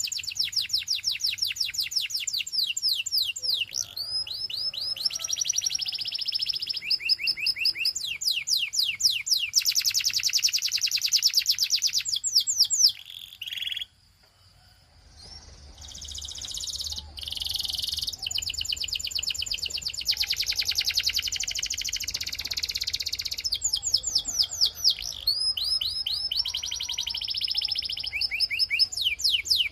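Canary singing: high-pitched song of fast repeated trills and rolling phrases, with a break of a second or two about halfway through before it resumes.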